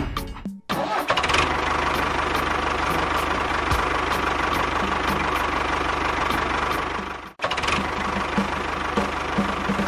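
A small engine or motor running steadily with a regular ticking about three times a second, cut off briefly twice.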